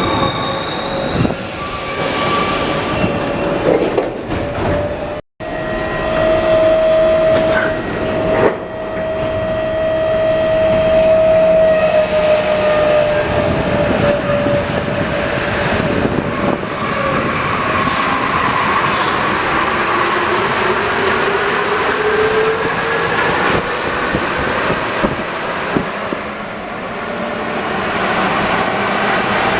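Alstom NS-74 rubber-tyred metro train running, with steady rolling noise and the whine of its traction equipment, one tone held level and another sliding in pitch in the second half. The sound drops out briefly about five seconds in.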